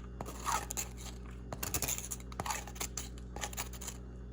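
Kitchen handling noises: food packaging crinkling and tearing, with a run of short scrapes and clicks, over a faint steady low hum.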